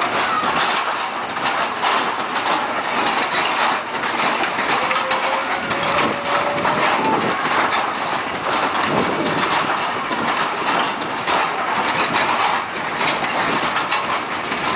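Motorcycle engine running during a ride, under a steady rushing noise.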